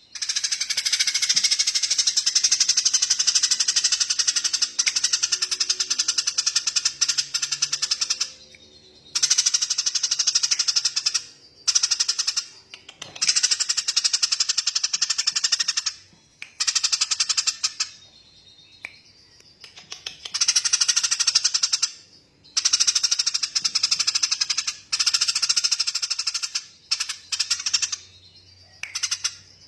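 Recorded small songbird giving very fast, dense, high-pitched chattering trills in bursts of a few seconds, with short breaks between them. The first burst runs about eight seconds; the later ones are shorter.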